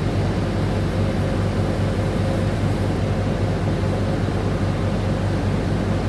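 Steady low rumbling noise with a constant hum, unchanging throughout.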